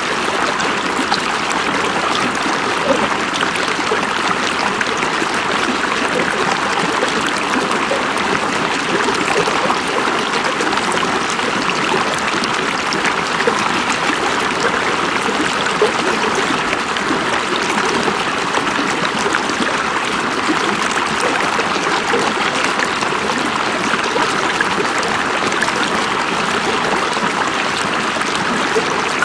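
River water rushing and burbling over stones, a steady, unbroken flow with fine splashing texture.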